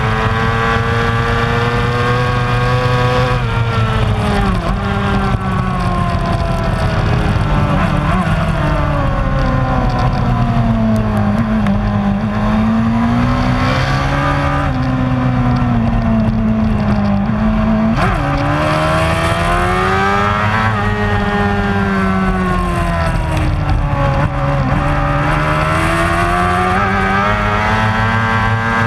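Racing superbike engine running hard, its pitch climbing under acceleration and falling away again, over and over, with sudden drops a few seconds in and about two-thirds through as the rider brakes and shifts down.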